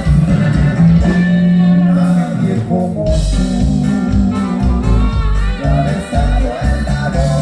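Norteño band music playing loud, with a bass line moving under melody instruments.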